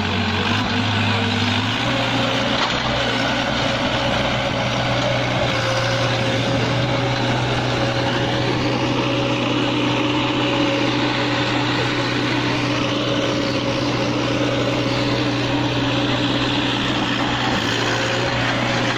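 Engine of a pneumatic drilling rig running steadily under load, with a constant hum whose pitch steps up slightly about two seconds in.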